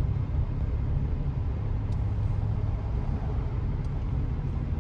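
Steady low road and engine rumble of a car, heard from inside the cabin while driving.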